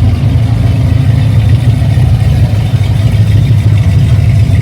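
A steady, loud low rumble of an engine running at idle.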